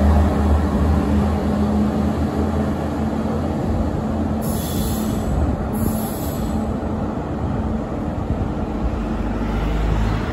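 TER diesel multiple unit drawing away along the track, its engine hum fading out after about four seconds while a steady rumble of rolling stock on the rails carries on.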